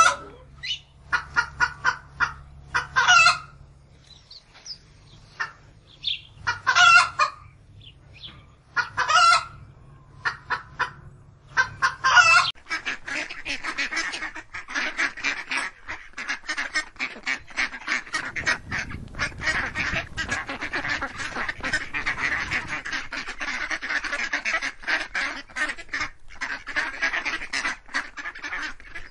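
Geese honking: loud single calls a few seconds apart over lighter chatter, giving way about halfway through to a dense, continuous clamour of many waterfowl calling at once.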